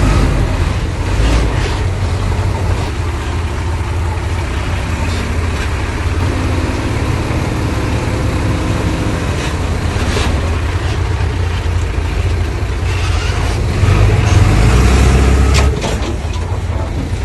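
Heavy diesel earthmoving machinery running with a steady low engine note, louder for a couple of seconds near the end, with a few short clanks or hisses over it.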